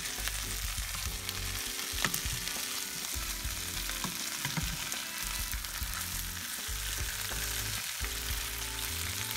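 Diced potatoes and chopped roast beef sizzling steadily in a hot nonstick skillet as a spatula turns and scrapes the browning hash, with a few light taps against the pan.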